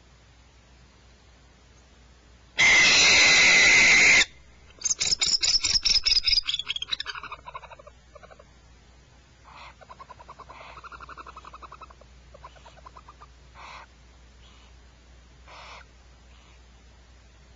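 Owl calls: a loud, harsh screech lasting about a second and a half, then a rapid run of pulsed notes that fades away. Fainter pulsed calls and a few short clicks follow later.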